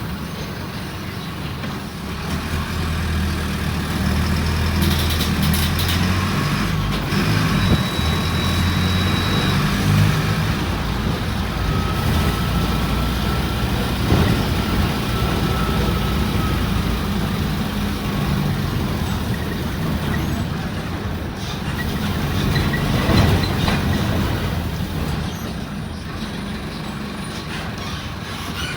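Mercedes-Benz OF-1722M bus's diesel engine running under way, getting louder about two seconds in, with scattered rattles and a faint thin whine for a few seconds midway.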